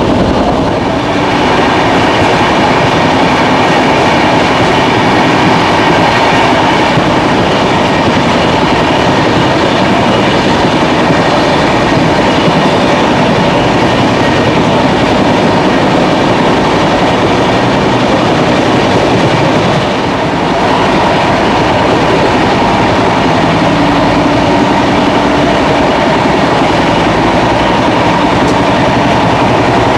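Double Decker Express passenger train running at speed, heard from an open coach door: a loud, steady rush of wheels on the rails.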